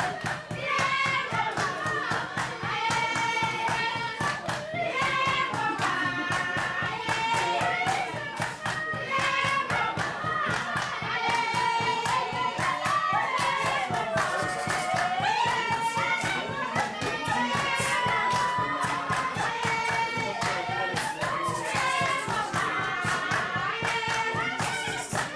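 Voices singing over a fast, steady beat of handclaps.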